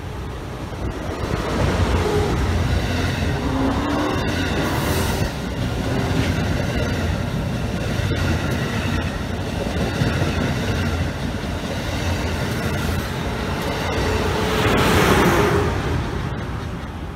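A train passing on the rails: a steady rumble of wheels and running gear that builds about two seconds in, swells loudest near the end and then begins to fade.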